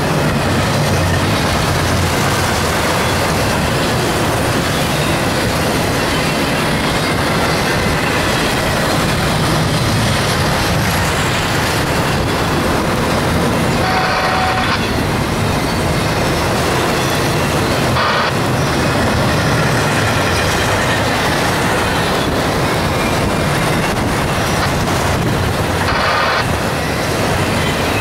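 CSX double-stack container freight train rolling steadily past at speed, a continuous rumble and clatter of wheels on rail mixed with the hiss of heavy rain. A few short, sharper rattles stand out near the middle and toward the end.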